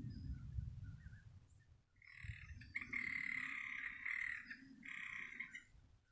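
A frog trilling for about three and a half seconds in one buzzy, high call, with a short break near the end, over a low rumble.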